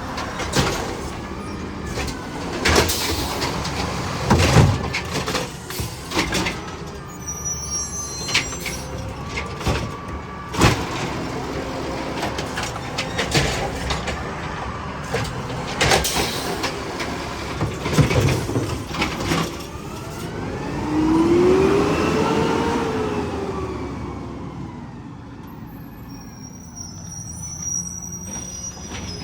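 Garbage truck at work: a run of bangs and clanks over the engine's running, then the engine revving up and back down a little past two-thirds of the way in.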